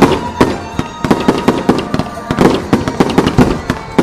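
Aerial fireworks shells bursting in a rapid barrage: many sharp bangs a second, unevenly spaced, with crackling between the loudest reports.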